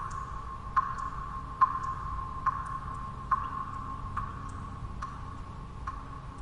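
Water drops falling one at a time in a slow, even drip, about one every second, each a short plink with a brief ringing tone, over a steady low white-noise hum.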